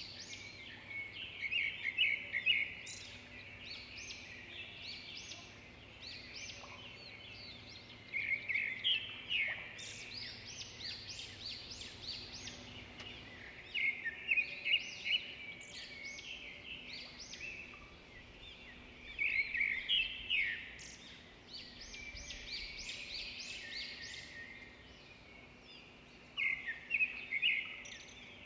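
Birds singing: recurring bursts of rapid, high chirping phrases every few seconds over a faint steady low hum.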